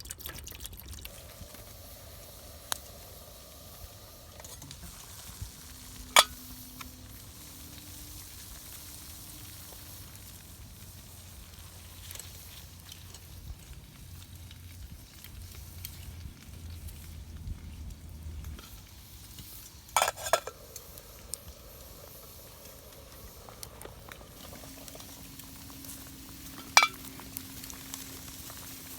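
Food sizzling and bubbling in a pan or pot, a steady low simmer. Three sharp clacks break through it, about six seconds in, about twenty seconds in and near the end.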